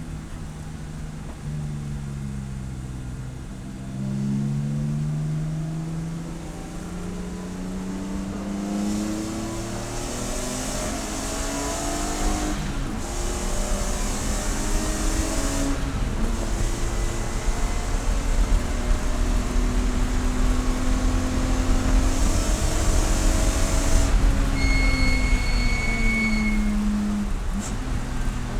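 Race car engine at speed, its pitch climbing and dropping over and over as it revs through the gears, with a high hissing noise swelling twice. A steady high-pitched tone sounds for a couple of seconds near the end.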